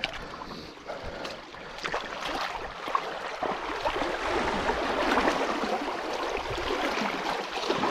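Water splashing and sloshing around feet wading through a flooded rock gully, swelling and easing unevenly.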